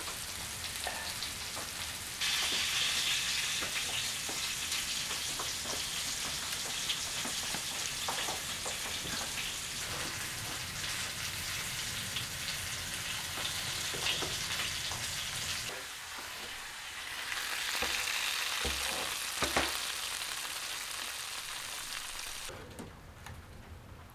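Food frying in a hot pan, a dense steady sizzle with scattered small clicks and taps. It gets louder about two seconds in, dips briefly later on and fades near the end.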